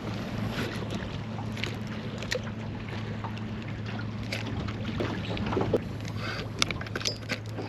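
Steady low hum on a small fishing boat, with wind noise on the microphone and scattered light clicks and knocks.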